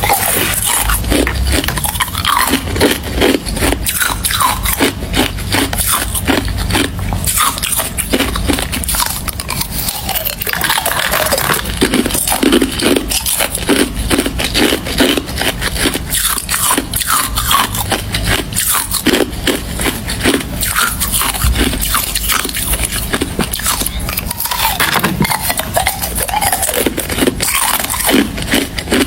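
Close-up crunching of ice: a person biting and chewing hard ice in quick, irregular cracks and crunches.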